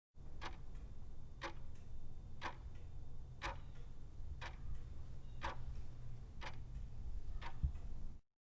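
Clock ticking steadily, about one tick a second, eight ticks in all, over a low steady hum, with a brief low thump near the end.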